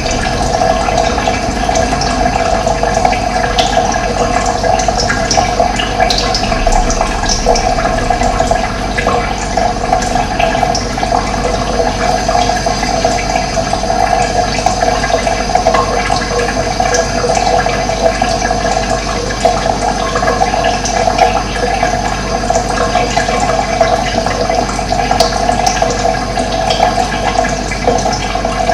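Running water, a steady rush of flowing water, with short high bird chirps here and there.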